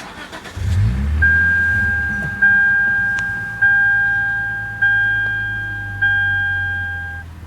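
2008 Lexus IS250's 2.5-litre V6 starting at the push of the start button, catching quickly and settling into a steady idle. Over it the car's warning chime sounds five times, a little over a second apart.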